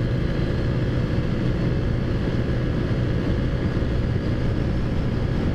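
Taotao Zummer scooter's small four-stroke engine, fitted with a big bore kit, running at a steady cruising speed, with an even hum and road and wind noise.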